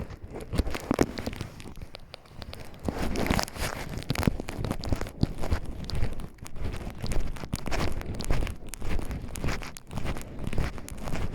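Footsteps crunching through forest undergrowth, with rustling of brush, at a steady walking pace.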